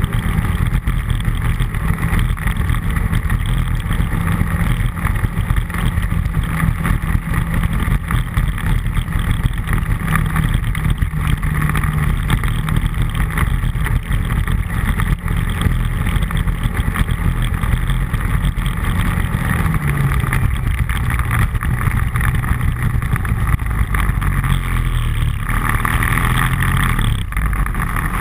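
ATV engine running steadily under way, its pitch dipping about two-thirds of the way through and climbing again near the end.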